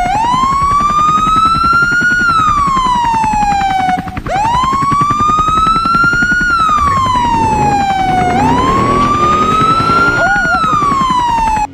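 A siren wailing loud and close, its pitch gliding up and then down in a slow cycle about every four seconds, over a low rumble. It cuts off suddenly at the end.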